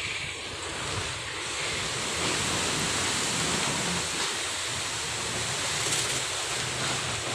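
Strong gusty wind rushing and buffeting the microphone, rising to a louder gust about two seconds in.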